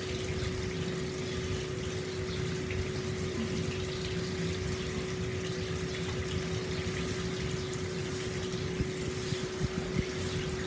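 Hot spring water pouring steadily into an open-air bath, a continuous splashing wash with a steady low hum under it. Near the end a few sharper splashes stand out.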